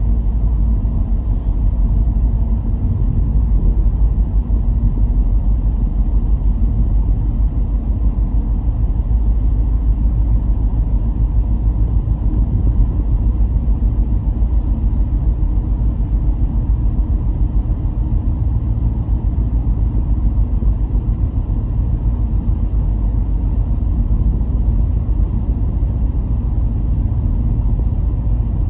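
Car driving along steadily, a continuous low engine and road rumble with no marked changes.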